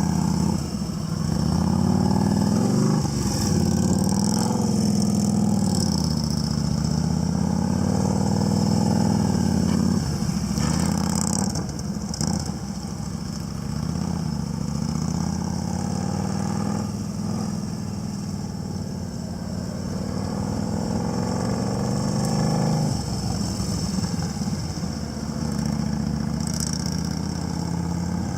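Motorcycle engine running at low speed, its pitch rising and falling with the throttle.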